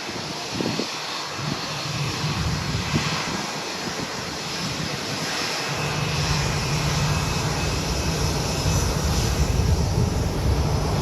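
Boeing 787 airliner's jet engines, a steady roar that grows gradually louder, with a deep rumble building from about halfway through.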